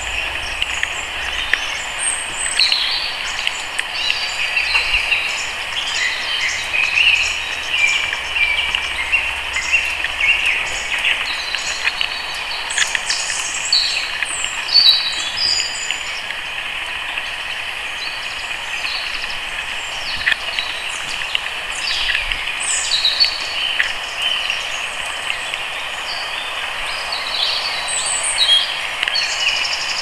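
Wild birds chirping and calling in many short, quick notes throughout, over a steady high-pitched background drone.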